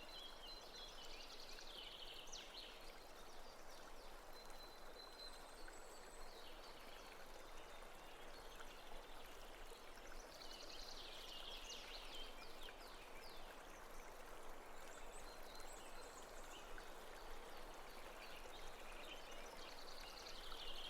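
Faint running-water ambience, with three spells of small bird chirps: near the start, in the middle and near the end.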